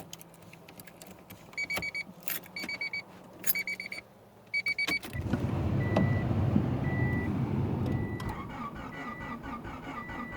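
Dashboard warning chime beeping in short rapid bursts, then the 1991 Honda Accord's four-cylinder engine starts about five seconds in and settles into a steady cold-start idle. The chime keeps beeping about once a second over the running engine.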